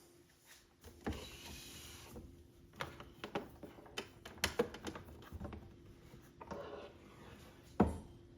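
Objects being handled: a short rustling swish, a run of light clicks and knocks, another swish, and one louder knock near the end.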